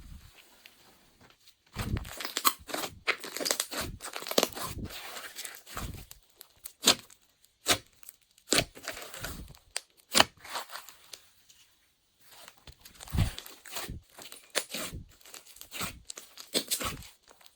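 Glossy slime being squished and stretched by hand, giving irregular sticky crackles and pops in clusters, with quiet pauses at the start and about twelve seconds in.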